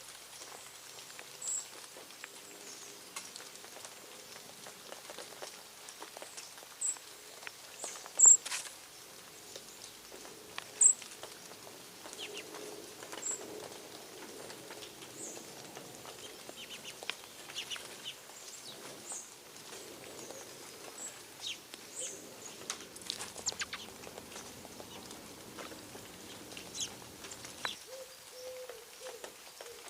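Birds giving short, high chirps scattered throughout, with two sharp loud clicks about 8 and 11 seconds in. Near the end a low, wavering coo begins.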